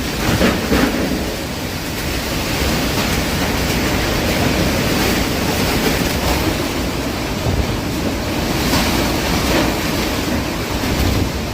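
Strong hurricane wind blowing in gusts, buffeting the microphone.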